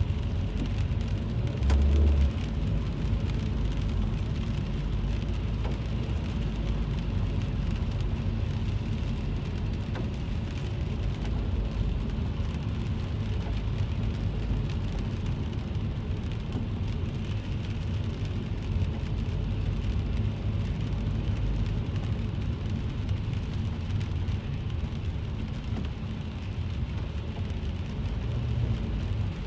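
Rain falling on a car's roof and windshield, heard from inside the cabin over the steady low rumble of the car driving. A brief low thump about two seconds in is the loudest sound.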